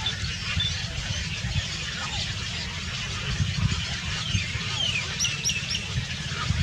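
Small birds chirping, with a quick run of three sharp chirps about five seconds in, over a steady low rumble.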